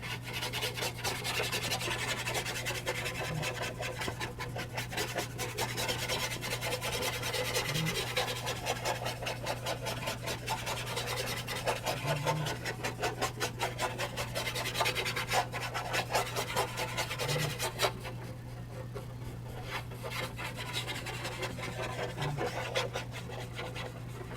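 Small round paint brush scrubbing charcoal dust into charcoal paper in quick, dense back-and-forth strokes, blending the shading; the scrubbing gets quieter about three quarters of the way through. A steady low hum runs underneath.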